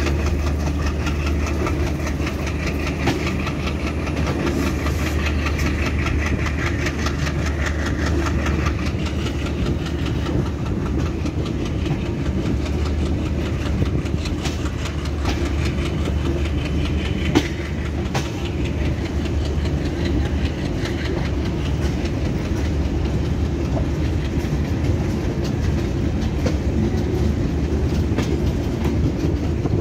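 Passenger train coaches running through a curve, heard from an open door: a steady rumble of wheels on rail with quick clicks over the rail joints and one sharper knock a little past halfway.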